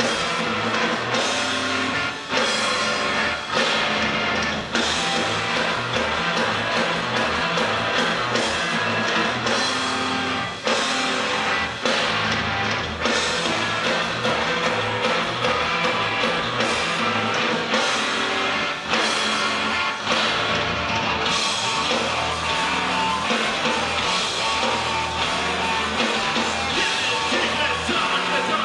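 A noise-rock band playing loud and live with distorted guitar, bass and drums in a dense, continuous wall of sound over a steady beat.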